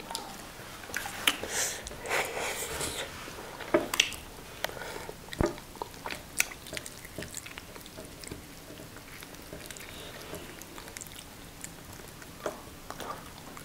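Close-up chewing and wet mouth smacks of people eating fried fish and banku by hand, with scattered small clicks and smacks at irregular intervals.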